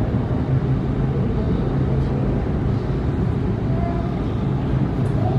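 Aerial tramway's cable and pulley machinery running: a steady low hum over a continuous rumble.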